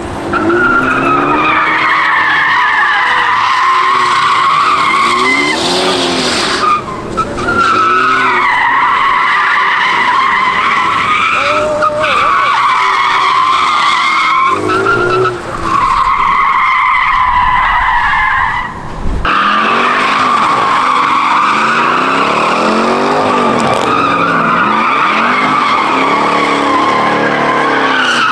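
A car's tyres squealing under hard wheelspin, with the engine revving up and down underneath. The squeal breaks off briefly several times and picks straight back up.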